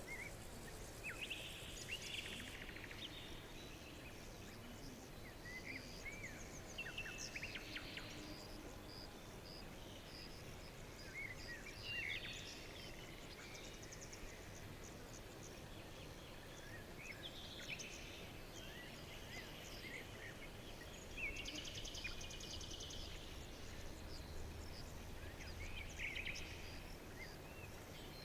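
Several songbirds chirping, with short rising and falling calls scattered throughout and a few buzzy trills, over a faint steady background hiss.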